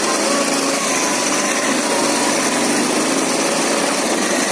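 Ural IMZ-8.103.30 motorcycle's flat-twin engine running steadily while riding, with a constant rushing noise over it.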